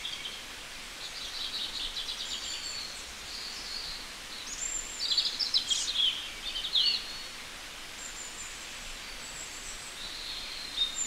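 Small birds chirping and singing in quick high trills and short calls, busiest about five to seven seconds in, over a faint steady background hiss.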